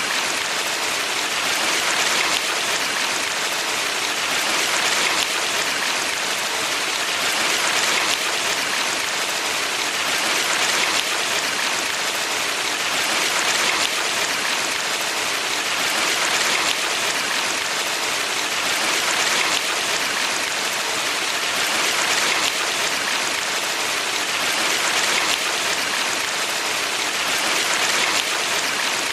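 Water of a valley stream flowing: a steady rushing with gentle swells every two to three seconds.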